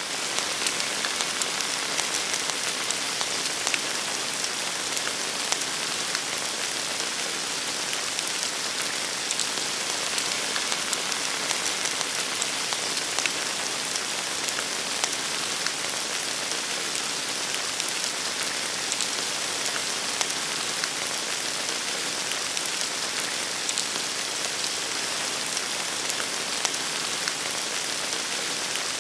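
Fireplace fire crackling: a dense, steady hiss scattered with many small pops and snaps.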